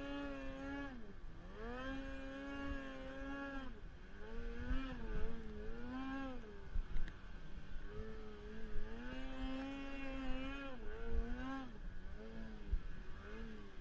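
Snowmobile engine revving up and down as the throttle is worked, its pitch climbing, holding for a second or two, then dropping, over and over.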